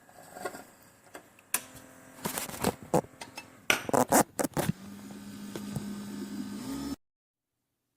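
A run of sharp clicks and knocks, as of hard plastic parts being handled. It is followed by a steady low hum for about two seconds that cuts off suddenly.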